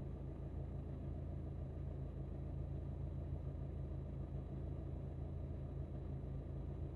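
Steady low hum of an Alfa Romeo MiTo's engine and running gear, heard from inside the car.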